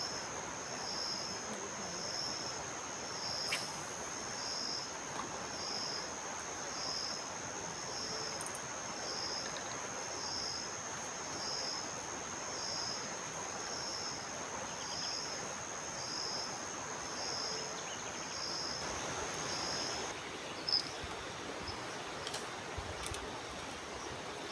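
An insect calling with one steady high-pitched trill that swells in a pulse about once a second, stopping suddenly near the end, over the steady rush of the river.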